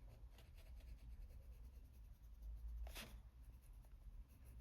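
Faint scratching of a colored pencil shading on paper in quick, short, repeated strokes, with one louder short sound about three seconds in.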